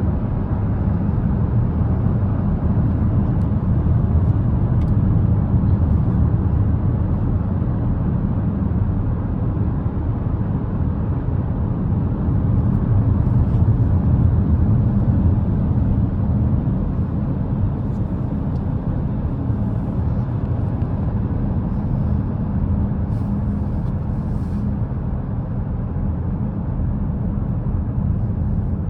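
Steady low rumble of a car driving along a road, its road and engine noise unchanging throughout.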